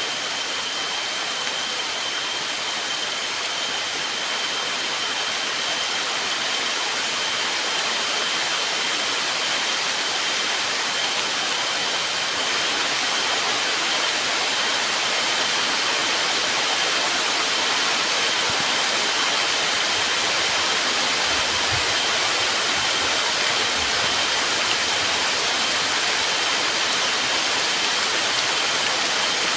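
Heavy rain falling steadily in the forest, a dense even hiss that grows slightly louder about twelve seconds in. Two thin, steady high tones sit over it.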